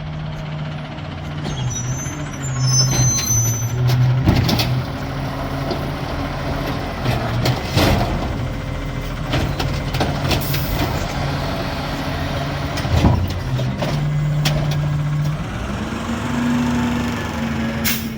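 Amrep garbage truck running, its engine pitch stepping up and down and rising near the end, with several sharp knocks and bangs and bursts of hiss from the truck working.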